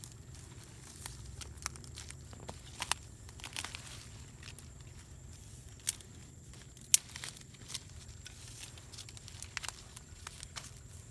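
Irregular crackles and sharp snaps, the loudest about seven seconds in, over a low steady hum.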